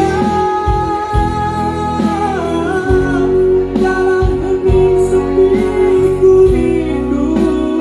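A busker band performing live: a singer holds long sung notes over instrumental backing with a steady low beat.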